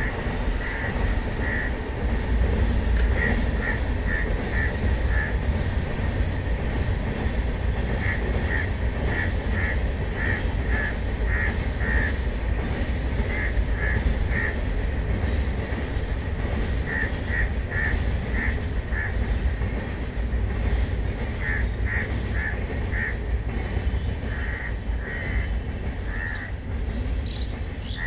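Passenger train running past at a distance, a steady low rumble, while crows caw repeatedly in short bursts throughout.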